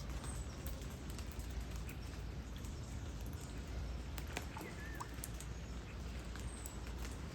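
Light rain falling steadily, with drops ticking and pattering close by over a low steady rumble. A bird chirps briefly a few times around the middle.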